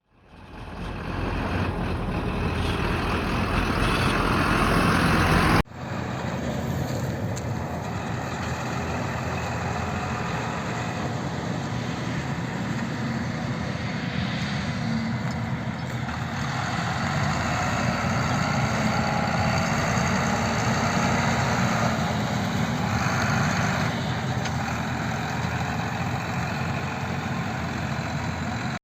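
YTO-1304 tractor's diesel engine running steadily. The sound fades in at the start and changes abruptly about six seconds in, where one shot cuts to another.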